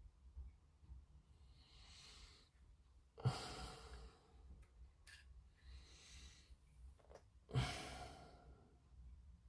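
A man breathing close to the microphone: twice a soft breath in, then a sharp, hard breath out, the two outbreaths about four seconds apart.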